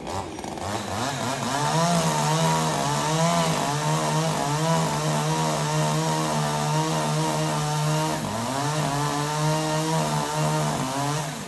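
Two-stroke chainsaw revved up to high speed and held there while cutting wood, its pitch wavering slightly under load. It eases off briefly about eight seconds in, then climbs back.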